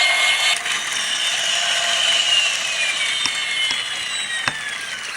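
Matchbox Elite Rescue Strike Hawk toy helicopter's small electric motor whirring as its rotors spin, with a high whine that slowly falls in pitch.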